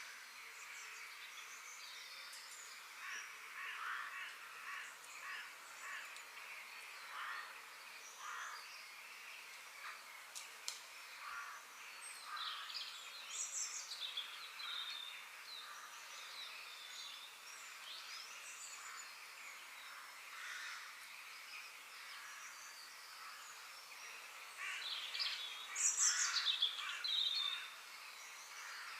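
Several birds chirping and calling over a steady outdoor background hiss, with a louder flurry of calls about 25 seconds in.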